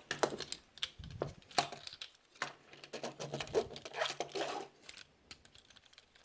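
Plastic toy parts being handled: scattered small clicks and light rustling, spread irregularly with short gaps.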